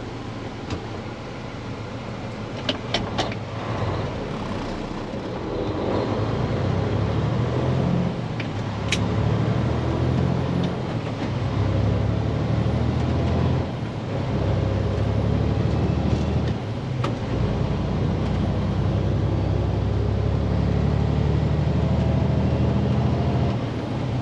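Diesel truck engine heard from inside the cab, pulling under load with brief dips and pick-ups in pitch and level that fit gear changes on a 10-speed manual. There are a few sharp clicks about three seconds in.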